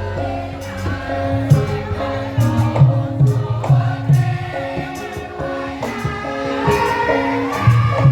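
Live gamelan music for a topeng lengger dance: struck metal keys ringing steady notes over regular drum strokes, with a singing voice sliding over it, strongest in the second half.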